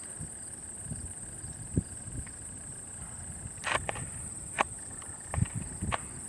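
Insects chirring in a steady high-pitched drone, with a few short, faint clicks and knocks.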